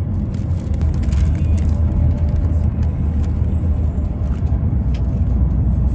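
Car engine idling, a steady low rumble heard from inside the cabin. Over it, a paper food wrapper and a sauce packet crinkle briefly in the first couple of seconds.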